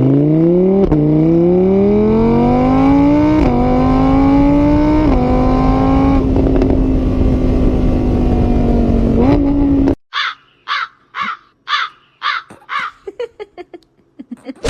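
Motor vehicle engine accelerating hard, its pitch climbing and dropping back in steps as it shifts up through gears. It cuts off suddenly about ten seconds in, followed by a quick run of short, separate sharp sounds.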